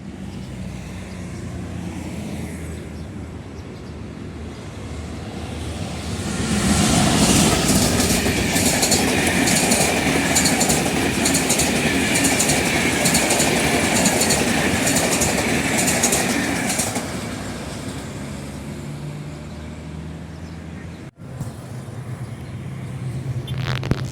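A train passing close by: the rumble swells about six seconds in into a loud, even clatter of wheels over rail joints, then fades away.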